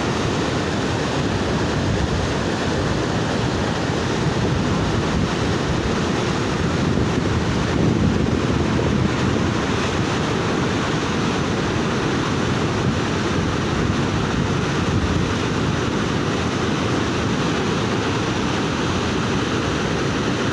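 Steady rushing of water with wind buffeting the microphone, an even noise that holds without a break.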